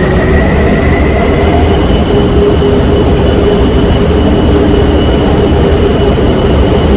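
Taipei Metro train running, heard from inside the car: a loud, steady rumble of wheels on track with a steady high whine over it.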